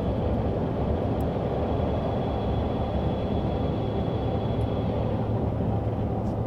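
Steady cabin drone of a CRJ-550 in flight: its rear-mounted turbofan engines and the airflow over the fuselage, heard from inside the cabin, with a faint high whine that fades out about five seconds in.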